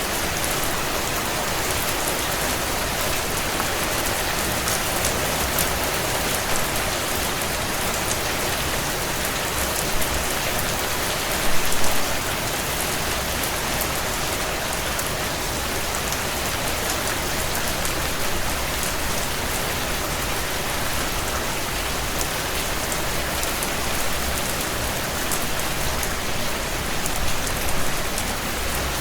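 Steady heavy rain pattering on window panes, mixed with the sharp crackles and pops of a wood fire burning in a fireplace. A few louder bursts come about 10, 12 and 27 seconds in.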